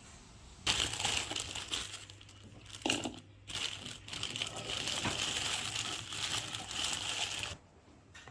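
Plastic bag crinkling and rustling as it is handled, with a few sharper crackles. It starts under a second in and stops shortly before the end.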